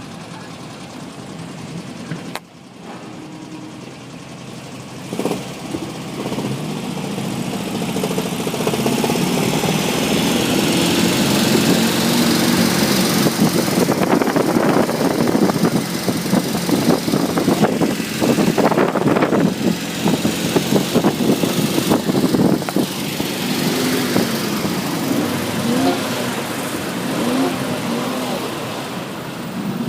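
A car engine running, getting louder from about eight seconds in.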